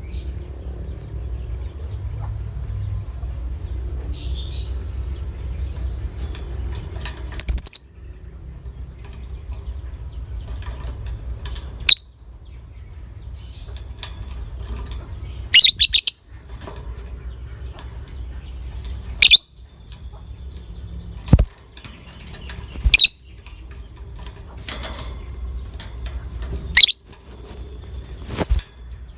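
Lovebird giving short, shrill chirps, about eight of them spaced a few seconds apart, each much louder than the background. Underneath runs a steady high-pitched whine and a low rumble.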